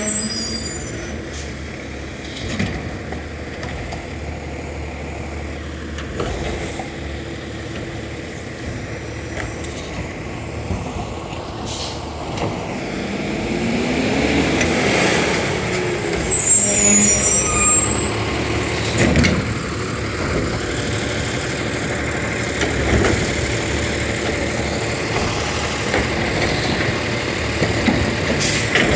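Garbage truck running, with short bursts of air hiss like air brakes, once right at the start and again a little past halfway, and a rising and falling whine around the middle.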